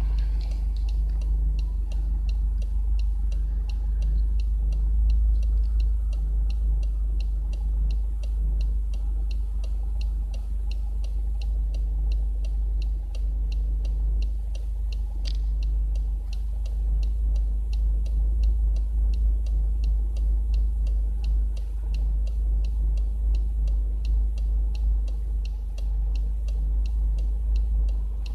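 Subaru Legacy engine and exhaust running steadily with a deep, even rumble, with a light regular ticking over it.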